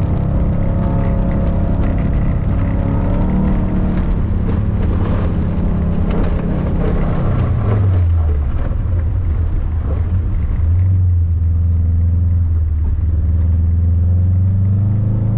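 In-cabin sound of a four-wheel-drive Subaru Impreza rally car racing on a wet dirt track: the engine pulls hard at high revs with scattered ticks of stones and mud hitting the car, then the revs drop about halfway through and it runs on at a lower, steady pitch.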